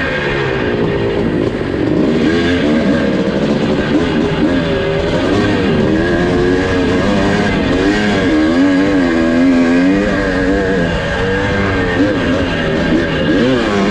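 1982 Husqvarna 430's two-stroke single-cylinder engine running hard, its pitch rising and falling again and again as it accelerates and backs off.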